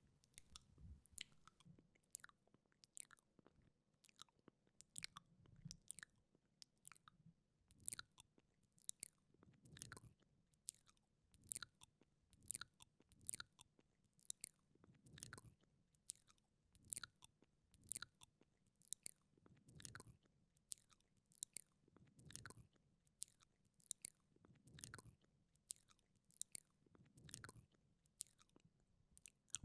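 Quiet, wet mouth sounds close to a binaural microphone: tongue and lip clicks and smacks, several a second, with a soft low thump about every two seconds.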